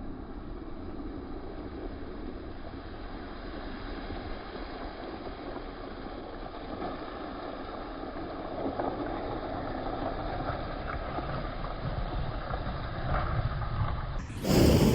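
Off-road vehicle driving on a rough mountain dirt road: a steady rumble of engine and tyres that slowly grows a little louder. Near the end a sudden loud rush of noise breaks in.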